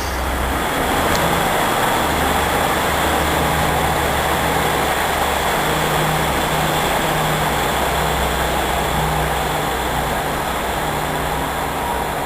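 Class 150 diesel multiple unit running, a steady diesel engine hum with an even rumble of the train under way.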